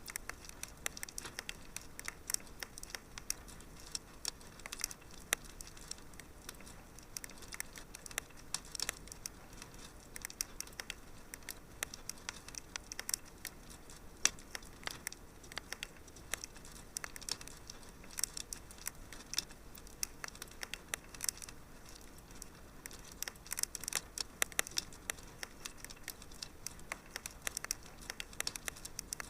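Fire in a fireplace crackling: a dense, irregular run of small sharp pops and snaps over a faint steady hiss, with busier clusters of pops now and then.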